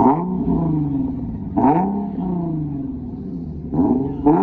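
Car engine being revved in repeated throttle blips: each one jumps up in pitch and falls back as the revs drop, about four times.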